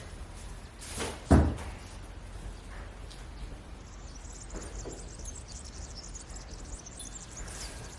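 A single short, heavy thump a little over a second in, over a faint background with a few light ticks.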